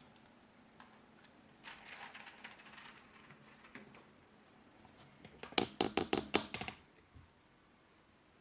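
Keys of a 2.4 GHz wireless office keyboard being typed on: a light run of quick keystrokes about two seconds in, then a short burst of louder, sharper key presses a little after halfway.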